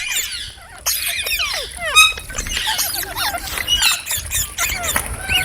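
Several green parrots chirping and squeaking, with many short, overlapping calls that slide up and down in pitch.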